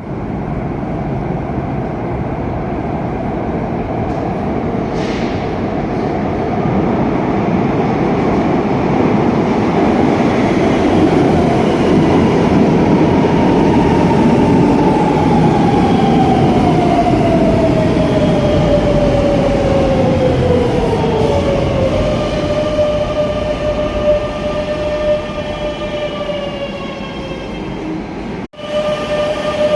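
Madrid Metro Series 9000 electric train coming into a station: a loud rumble of wheels on rail, with a motor whine that falls steadily in pitch as the train slows. It then gives way to a quieter steady electric hum while the train stands. The sound drops out abruptly for an instant near the end.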